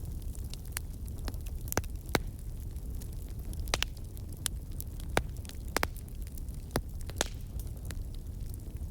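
Campfire of burning wood crackling, with sharp irregular pops and snaps from the logs over a steady low rumble of the flames.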